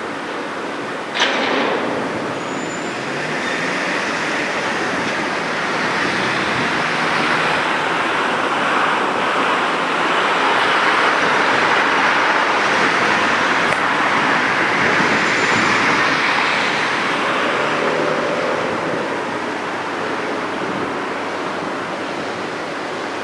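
Steady vehicle noise that swells to a peak around the middle and fades again, like a vehicle passing, with a sharp click about a second in.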